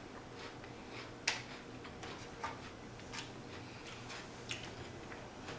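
Eating crunchy raw jicama fries: scattered soft crunches and clicks of chewing, the sharpest a little over a second in.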